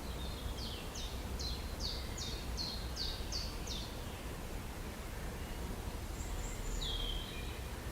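A bird singing a run of about eight quick, high notes, each sliding downward, then a high call and one more falling note near the end, over steady background hiss and a low rumble.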